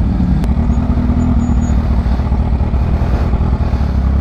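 Kawasaki Ninja H2's supercharged inline-four engine running at a steady cruise under the rider, with no revving.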